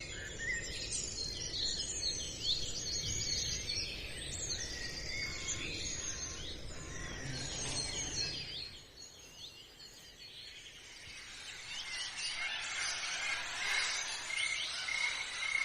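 Small birds chirping in quick runs of short, high calls, over a low rumble that drops away about eight seconds in; the chirping thins out briefly, then picks up again near the end.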